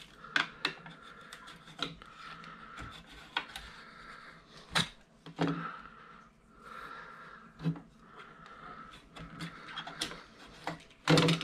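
Copper wire being stripped by hand with a wire stripper: irregular clicks and knocks of the tool on the wire, with rubbing as the insulation is worked off.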